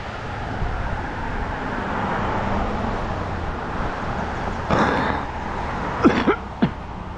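Steady road and engine noise of a car driving. About five seconds in there is a short louder rush, and near the end three brief squeaks that slide down in pitch.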